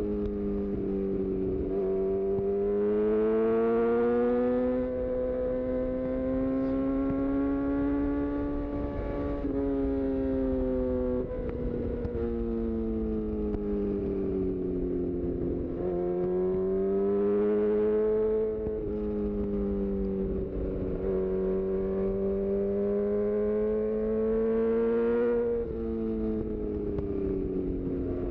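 2018 Honda CB1000R's inline-four engine through a full-system Black Widow exhaust, running under way. Its pitch climbs and sags over several seconds at a time, broken by sudden steps as the rider changes gear.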